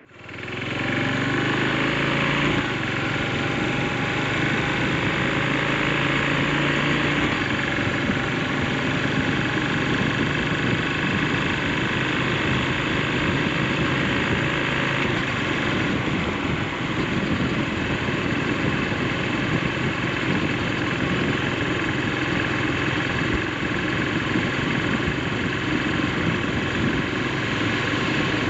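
Carbureted single-cylinder engine of a 2003 Yamaha SR400 motorcycle running steadily, with a constant rush of noise over it.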